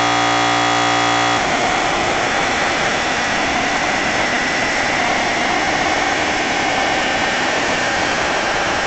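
Air compressor running while a tire is aired up: a steady humming tone for the first second and a half, then a steady noisy rush.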